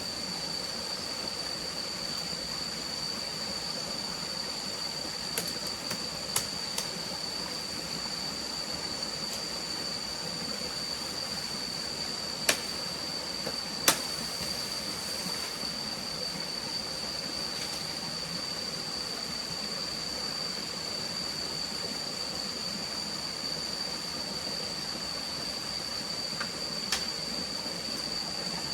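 Steady rush of a forest stream with a constant high, thin tone over it. A handful of sharp clicks or knocks break in, the loudest about 14 seconds in.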